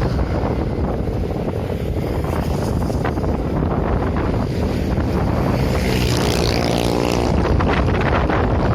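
Strong wind buffeting the microphone, a loud steady rumbling rush. About six seconds in, a brief pitched hum rises over it for a second or so.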